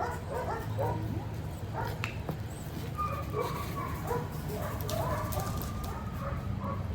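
A dog's short yips and barks mixed with drawn-out whines, one whine around three seconds in and another around five seconds in, from a dog excited while being asked to settle. A steady low hum runs underneath.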